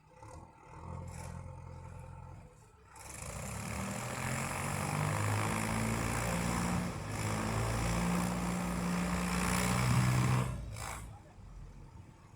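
Tractor engine running, a low steady hum that grows much louder about three seconds in, its pitch stepping up and down as it works, then dropping back about ten and a half seconds in.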